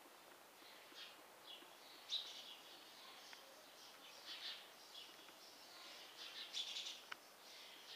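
Faint chirping of small birds: short high calls every second or so, the loudest about two seconds in and a busy run of calls past six seconds.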